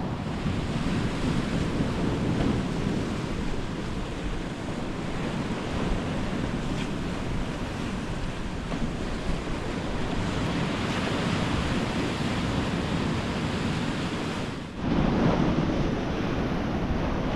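Ocean surf and wind rushing steadily, with wind buffeting the microphone. The sound drops out briefly near the end and comes back a little louder.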